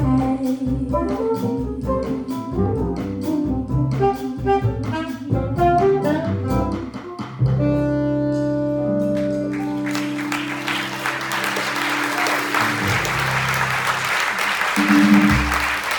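Jazz combo of alto saxophone, trumpet, piano, bass and drums playing the instrumental ending of a tune with busy drumming, settling onto a held final chord about seven and a half seconds in. Audience applause starts about ten seconds in and carries on to the end.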